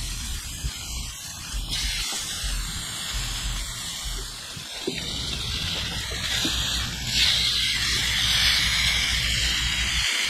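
T-bone steaks and potato wedges sizzling on a hot flat-top griddle, a steady hiss that grows louder about seven seconds in, with a low rumble underneath.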